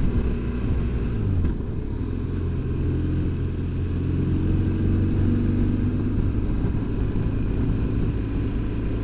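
BMW R1200GS Adventure's boxer-twin engine running while riding, with a low rumble; its note drops about a second and a half in, then holds steady and picks up slightly.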